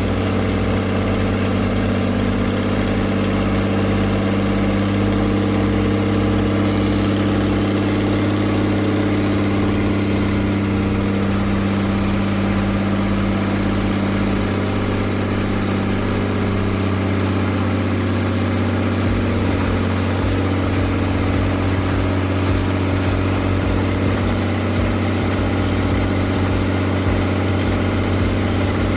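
Freshly overhauled Ashok Leyland H-series 180 HP bus diesel engine idling steadily, running in after its first start.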